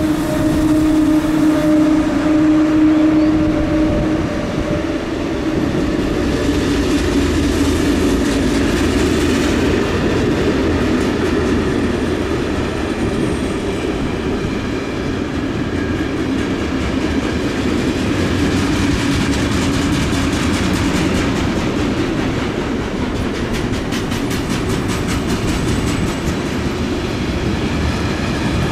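Train passing at close range, its wheels rumbling steadily on the rails and clicking over joints. A steady tone sounds for the first few seconds.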